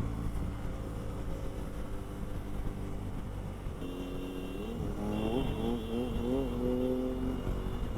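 Motorcycle engine running steadily, then about halfway through revving up in several rising pulls that each drop back, like an accelerating bike shifting up through the gears, before holding a higher steady note. A low rumble of road and wind noise runs underneath.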